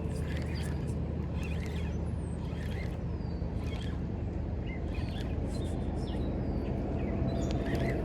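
Steady rush of flowing river water with birds chirping repeatedly over it in short high calls.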